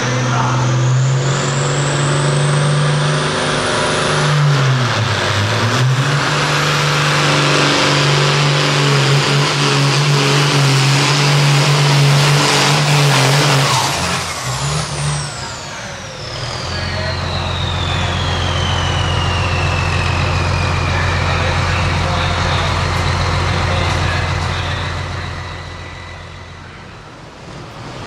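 Hot farm pulling tractor's turbocharged diesel engine running hard under load with a high turbo whistle. About halfway through it throttles back to a lower steady running note while the turbo whine falls slowly away.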